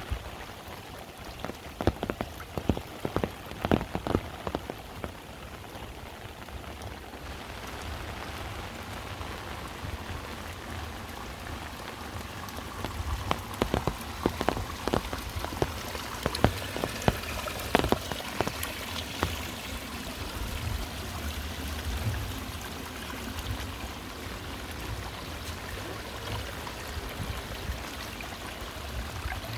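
Heavy rain falling steadily, with clusters of sharp drop taps about two seconds in and again around the middle.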